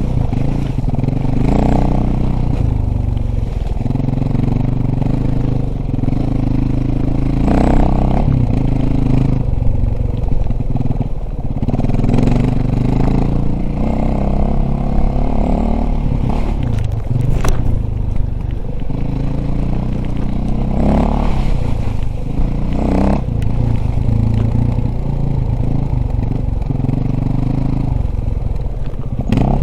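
Dirt bike engine running continuously, with brief rises in revs now and then.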